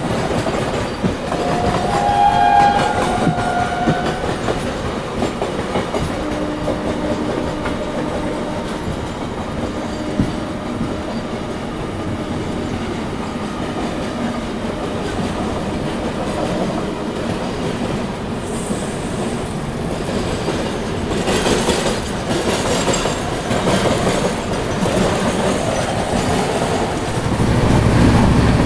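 Express passenger train running on the track, with a steady rumble and wheel clatter. A horn sounds briefly about two seconds in.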